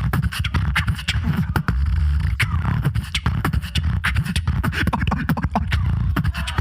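Solo beatboxer performing into a microphone: heavy, continuous bass tones under a rapid run of sharp clicks and snare-like strikes.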